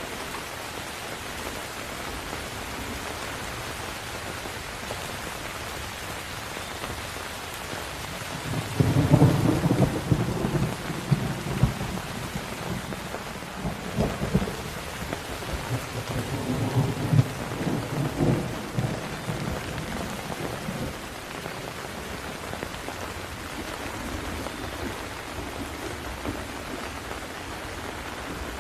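Steady rain with a long roll of thunder that starts about a third of the way in, rumbles low with a few sharper cracks for around ten seconds, then dies away, leaving the rain alone.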